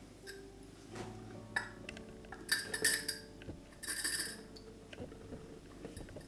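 Light clinks and scrapes of kitchenware, with a few short clicks and two louder hissing scrapes about two and a half and four seconds in.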